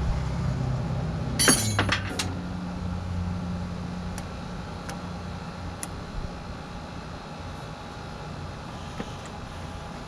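Metal parts clattering about one and a half seconds in, then a few single light clinks of hand tools or hydraulic fittings, over a low steady hum that slowly fades.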